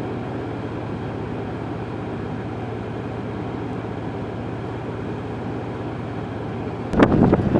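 A steady low rumble with a faint hum, then, about seven seconds in, sudden loud gusts of wind buffeting the microphone.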